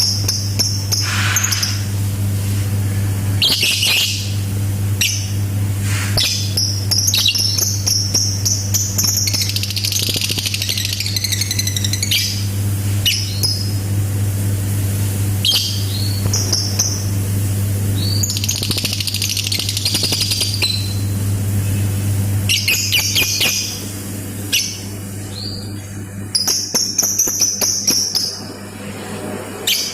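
A lovebird singing in repeated high, fast chattering bursts: quick clicking runs (the 'typing' call) and longer unbroken trills (ngekek) of two to three seconds. A steady low hum runs underneath and fades out about three-quarters of the way through.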